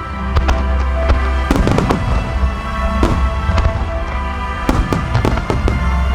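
Fireworks shells bursting overhead, with many sharp cracks and crackles in quick succession over a deep rumble, while music plays along with the display.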